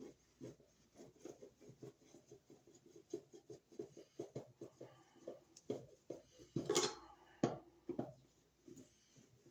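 Irregular light clicks, taps and scrapes of a hand tool and wires being handled while an old wall receptacle is taken out of its box, with a louder clatter about seven seconds in.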